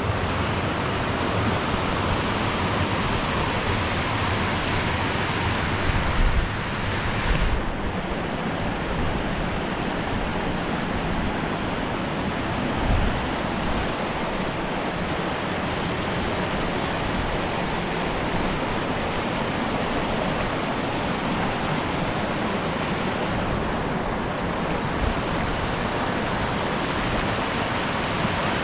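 Waterfall cascading steadily into its splash pool, a constant rushing of water, with a few low thumps of wind on the microphone about six to seven seconds in.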